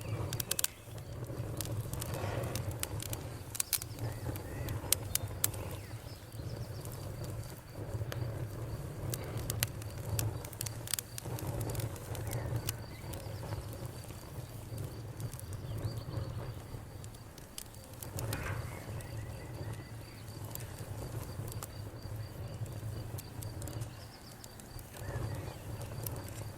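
Wood fire in a fireplace crackling, with frequent sharp pops that are thickest in the first half, over a steady low rumble.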